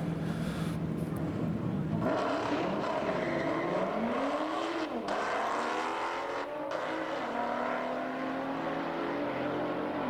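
A Nissan GT-R and a Dodge Super Bee drag-race down a strip. The engines idle at the line, then about two seconds in they launch and rev hard, the pitch climbing and dropping back at gear shifts.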